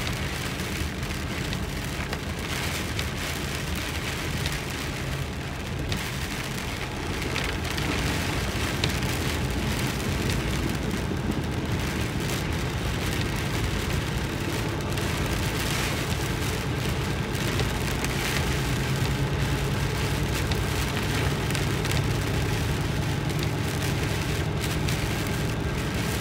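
Heavy rain falling on the windshield and roof of a moving vehicle, heard from inside the cab, over a steady low hum of engine and tyres on the wet road.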